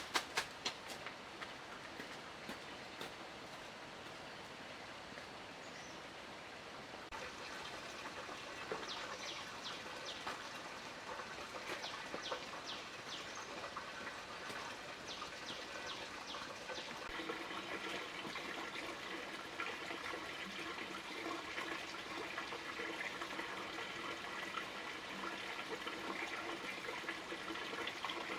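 Water running steadily, growing stronger about two thirds of the way through, with a run of short bird chirps in the middle.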